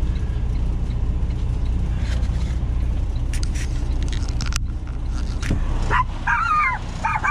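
A semi truck's diesel engine idling with a steady low hum; about six seconds in, a dog in the cab starts giving high, wavering calls, the loudest sound here.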